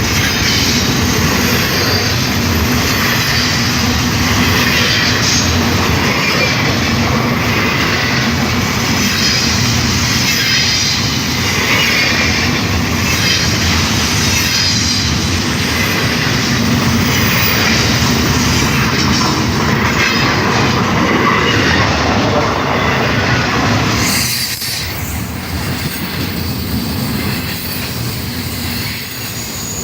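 Long Union Pacific freight train's cars rolling past, steel wheels squealing and scraping on the rails over a steady rumble. The sound gets somewhat quieter near the end.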